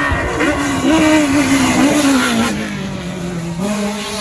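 Rally car engine revving hard as the car passes at speed, its pitch wavering with the throttle, then sliding down as it moves away, with a brief rise in revs near the end.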